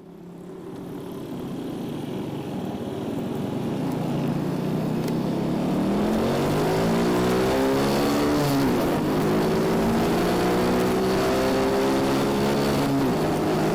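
Yamaha Junoon motorcycle engine accelerating, its pitch climbing steadily and dropping sharply at two gear changes, about nine seconds in and again about thirteen seconds in. The sound fades in from silence at the start.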